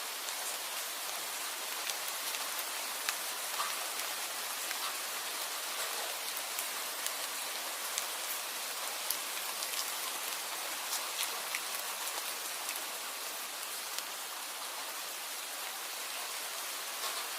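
Steady rain falling, an even hiss with many individual drops ticking sharply on hard surfaces.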